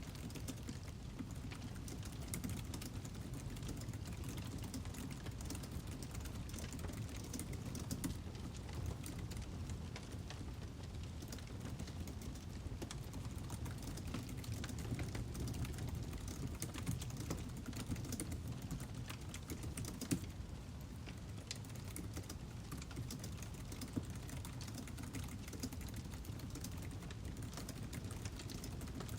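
Wood fire burning: many small irregular crackles and pops over a steady low rumble, with a few louder snaps.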